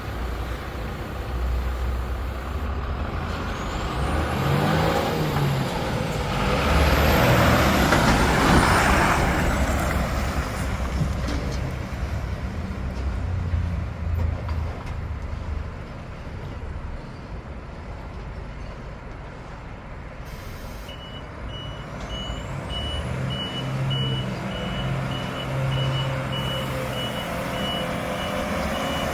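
Iveco Stralis garbage truck with a FAUN Variopress body, its diesel engine running, with a loud rushing surge of noise and high whines a few seconds in. About two-thirds of the way through, a reversing alarm starts beeping steadily as the truck backs up.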